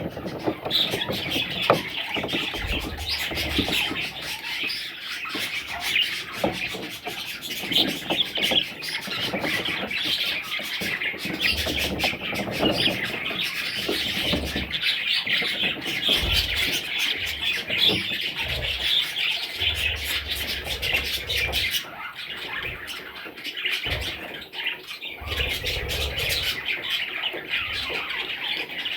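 A group of budgerigars chirping and chattering continuously, with occasional low rumbles underneath.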